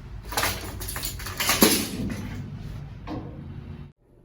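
Clattering and rustling of objects being handled and knocked about while rummaging through trash in a dumpster, loudest about one and a half seconds in; it cuts off abruptly near the end.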